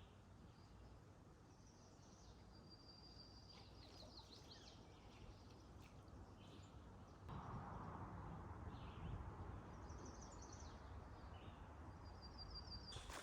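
Faint chirps and calls of small birds over a quiet outdoor background, several short runs of them. About halfway through, a soft, steady rushing noise comes in underneath.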